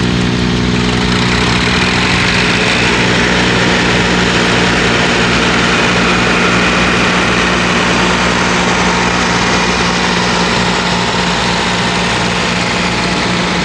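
Heavy tractor-pulling engine idling steadily, one even low drone that holds its pitch.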